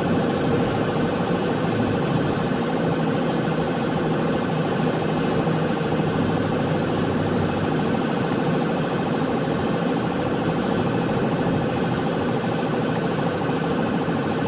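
Police patrol car's siren sounding continuously during a pursuit, heard from inside the car along with engine and road noise.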